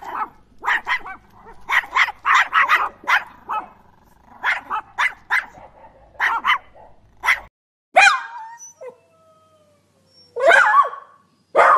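A small dog yapping in quick runs of sharp, high barks. About eight seconds in it gives a drawn-out cry that slides down in pitch, and near the end another wavering, howl-like cry.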